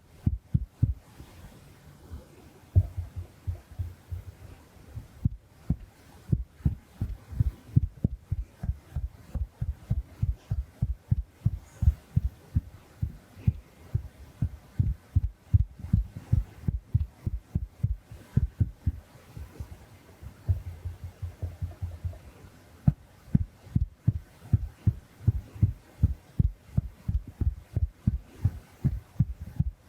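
Big makeup sponge patted against the camera lens and microphone, giving soft, low, muffled thuds in quick succession, about three a second, with short pauses.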